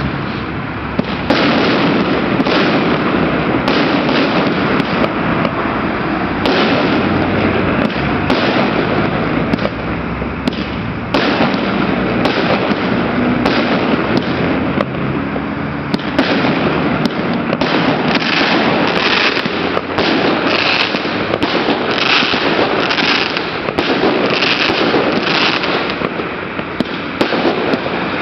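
Fireworks display: shells bursting with continuous crackling and many sharp pops, growing into denser, brighter bursts in the second half.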